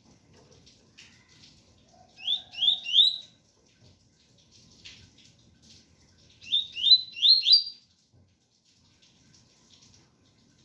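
Double-collared seedeater (coleiro) singing its tui-tui song: two short phrases of quick rising notes, three notes about two seconds in and four notes about six and a half seconds in, over faint rain.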